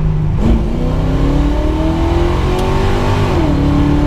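Carbureted small-block Chevy V8 of a 1979 Camaro Z28 at full throttle for a 30 to 60 mph run. The engine note jumps as the throttle opens, rises steadily for nearly three seconds, then drops as it shifts up a gear near the end.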